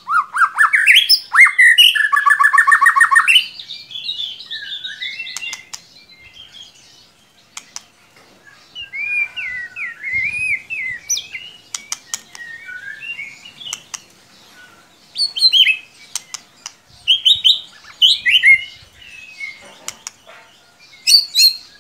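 White-rumped shama (murai batu) singing. It opens loudly with rising whistles and a fast trill of about ten notes a second, then continues with quieter, varied warbling phrases mixed with sharp clicks. A few short phrases come near the end.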